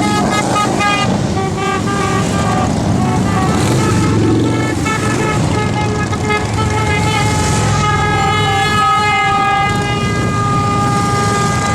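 Vehicle horns honking, short repeated toots at first and then a long held honk late on, over the steady rumble of running motorcycle engines.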